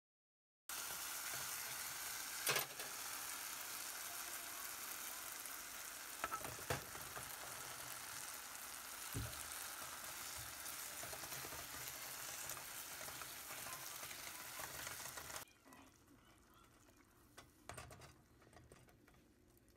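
Red chicken Manchurian sauce with bell peppers sizzling in a hot pan as a spoon stirs it, with a few sharp clicks of the spoon against the pan. The sizzle starts about a second in and drops to a much quieter hiss about fifteen seconds in, with a few more clicks near the end.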